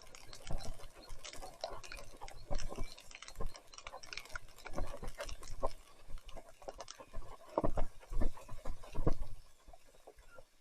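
Mountain bike riding over a rough, muddy trail: irregular rattles and knocks from the bike, with tyres working through wet mud.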